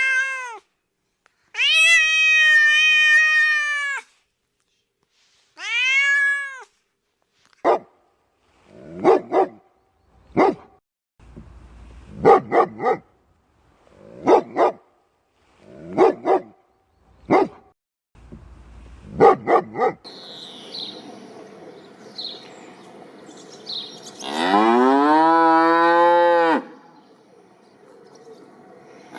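A sequence of animal calls: a domestic cat meowing a few times, then a dog barking in short pairs about every one and a half to two seconds, then a cow mooing once, long, over a faint background with bird chirps.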